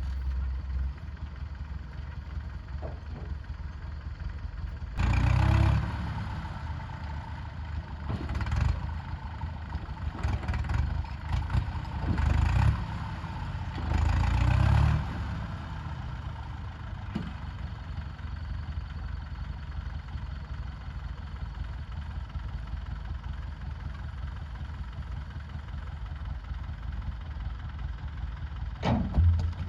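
A heavy vehicle's engine running steadily, with several short louder surges in the middle stretch and a brief loud burst near the end.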